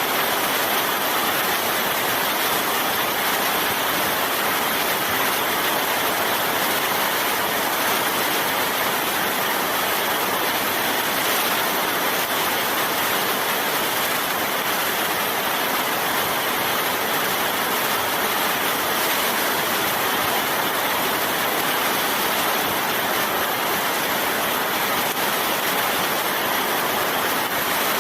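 Steady heavy rain: an even, unbroken hiss with no separate drops or gusts.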